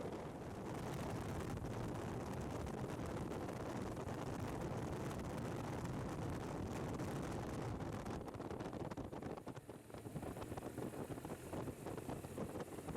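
BMW R1200GS flat-twin engine running while riding, with wind rushing over the microphone; the sound dips briefly about ten seconds in and turns choppier after.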